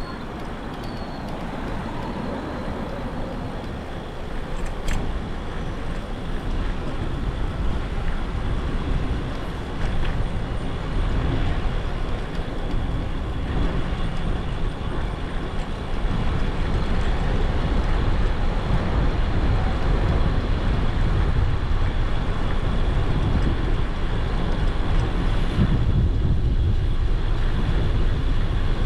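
Wind rushing over the action-camera microphone of a moving e-bike, a dense low rumble mixed with road traffic, growing louder a few seconds in and again about halfway through.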